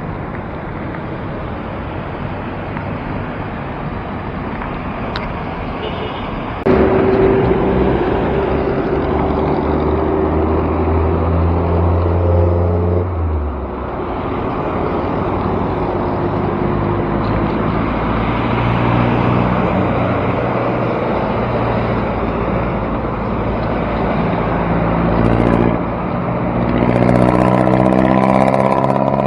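Motor-vehicle traffic heard from a moving bicycle on a city road: engines of nearby cars and larger vehicles running over a steady rush of road noise. A heavy engine hum comes in suddenly about a quarter of the way through and drops away about halfway, and another engine grows near the end.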